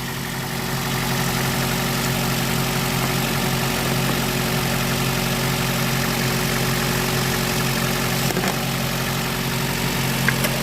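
Car engine idling steadily just after being jump-started from a dead battery, settling to an even idle in the first second.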